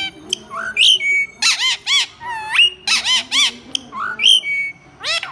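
Ringneck parakeet vocalizing in a quick run of short, high-pitched, arching calls, in clusters through the whole stretch.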